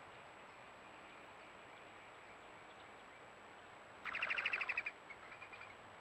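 A songbird's rapid trill of about a dozen quick, evenly spaced high notes lasting under a second, followed by a few softer notes, over a steady faint outdoor hiss.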